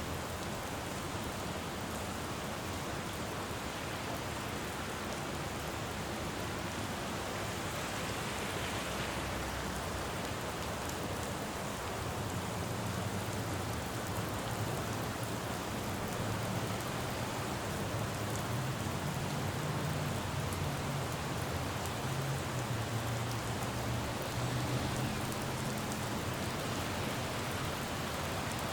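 Steady rain falling on a road, with the low rumble of city traffic on the wet street growing stronger about halfway through.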